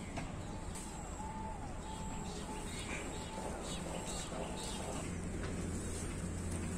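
Faint bird calls over quiet outdoor background noise: a few short, clear, level notes in the first couple of seconds.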